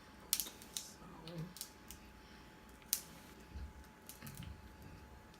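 Cracking and picking apart king crab legs: a handful of sharp, irregular clicks and cracks from the shells.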